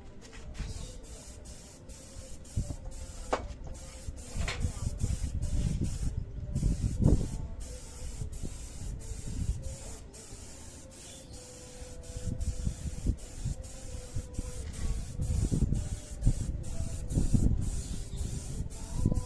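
Clear coat being sprayed onto a motorcycle engine: a steady hiss of spray with a few short breaks between passes, over irregular low knocks and bumps.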